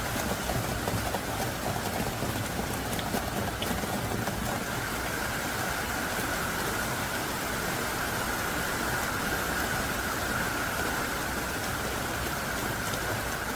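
Heavy rain pouring down steadily in large, hard-falling drops.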